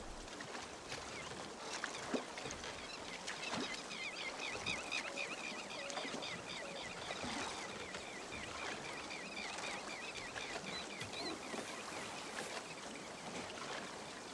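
Birds chirping in a quick, repeating chatter over a quiet outdoor background, with a few soft knocks, the loudest about two seconds in.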